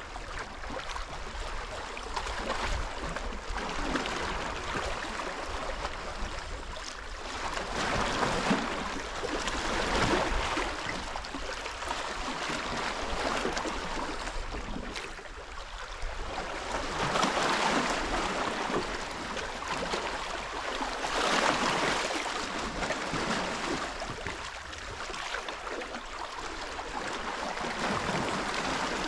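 Rushing wind-and-water noise at the shoreline, swelling and easing every few seconds, with a steady low rumble underneath.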